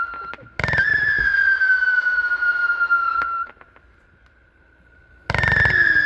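Firework cake firing whistling shots. A sharp launch bang about half a second in is followed by a loud whistle that slowly falls in pitch for nearly three seconds. Near the end a second bang starts another falling whistle.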